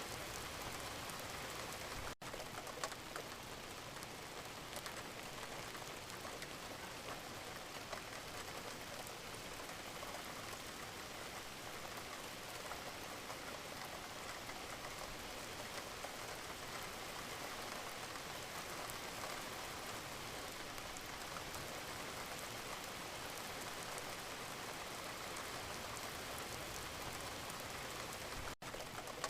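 Wood fire crackling in a fireplace: a steady hiss with frequent small pops and snaps. The sound cuts out for an instant twice, about two seconds in and near the end.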